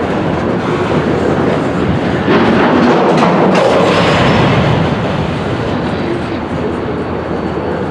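Freight cars rolling along the yard tracks during switching, a steady rumbling noise that swells louder for a couple of seconds from about two seconds in.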